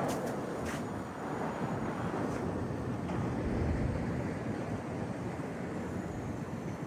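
Steady low rumble of outdoor city background noise, with a few faint clicks in the first second.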